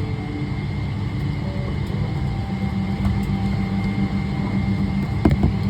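Steady low rumble in the cabin of a Boeing 777-300ER airliner, with a faint steady high whine on top. A couple of light clicks come near the end.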